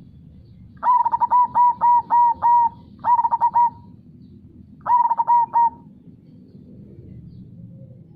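Zebra dove (perkutut) cooing: a run of about six quick notes, then a short phrase, and another short phrase after a pause of about a second. A low, steady river rush runs underneath.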